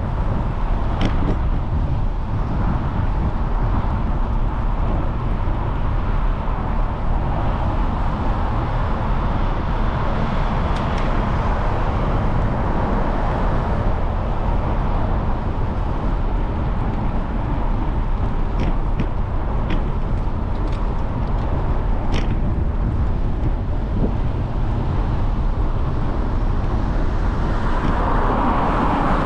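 Steady road and traffic noise heard while riding a bicycle, with a few short sharp clicks about a second in, around eleven seconds in and in a cluster near the middle.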